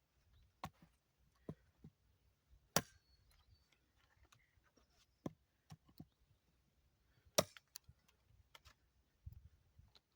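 A khukuri made from saw-blade steel chopping into wood: about ten sharp, unevenly spaced chops, two of them much louder than the rest.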